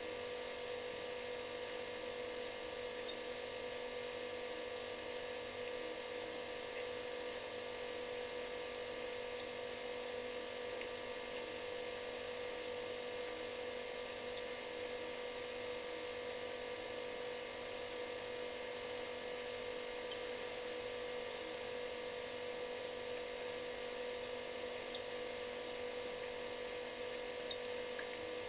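Refrigerator running with a steady buzzing hum: one strong tone over several weaker ones and an even hiss.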